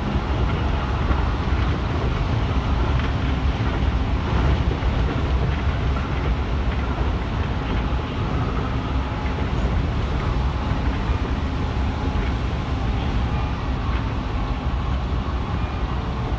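Keihan 3000-series electric train running along the line, heard from inside the passenger cabin: a steady rumble of wheels on rails, even throughout with no sudden events.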